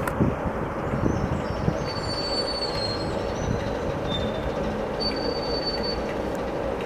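Train rolling through, a steady rumble of wheels on the rails with thin, high wheel squeals about two seconds in and again about five seconds in.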